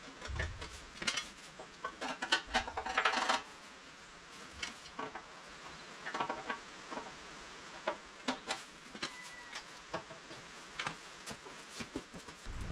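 Scattered light clicks and knocks, with short clucking bird calls bunched a couple of seconds in and again about six seconds in.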